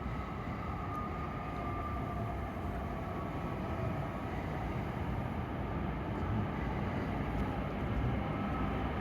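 E7 series Shinkansen train at the station platform: a steady low rumble with a faint, even whine above it, growing slightly louder near the end.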